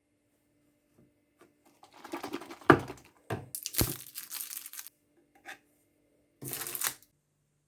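Rustling and crinkling handling noises in three bursts, with a sharp knock about three seconds in.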